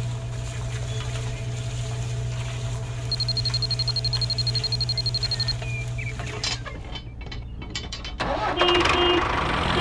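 Steady low hum of a small motor, with a rapid string of high electronic beeps from about three seconds in to about five and a half. A few clicks follow, and near the end the hum changes to a louder, rougher engine-like sound with a couple of short beeps.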